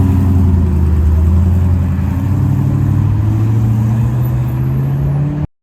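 Car engine running with a steady low note that climbs slowly in pitch over the last couple of seconds, then the sound cuts off suddenly near the end.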